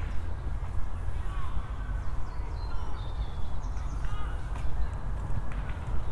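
Small birds chirping in short calls several times over a continuous low rumble.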